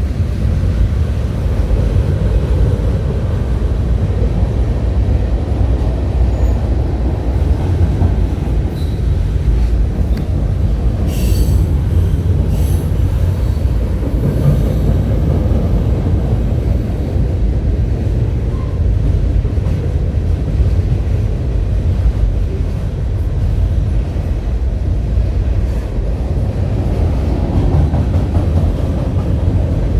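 Train going by: a steady low rumble of wheels on rail, with a short high squeal about eleven seconds in.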